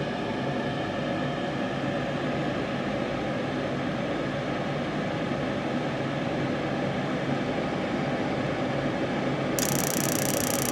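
A 90% condensing gas furnace fitted with an LP kit runs on a call for heat, its fan motor giving a steady mechanical hum. Near the end a loud hiss cuts in.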